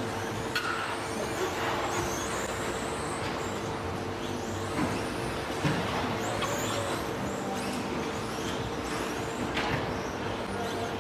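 Several 13.5-turn brushless electric RC stadium trucks racing off-road, their motors whining and rising and falling in pitch as they speed up and slow down. A few sharp knocks are heard, spread through the run.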